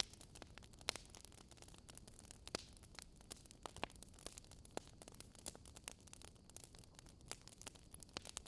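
Wood fire crackling: irregular sharp pops and snaps, several a second and some louder than others, over a faint low hiss.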